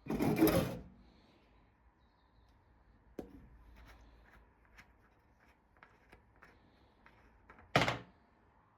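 A short, loud scraping clatter, then a knock and scattered light clicks and taps, and a second short loud clatter near the end. No engine is running.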